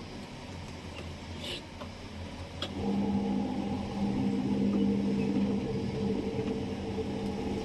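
A 10 kg washing machine's wash motor starts with a click about three seconds in, then runs with a steady hum as it turns the tub's agitator.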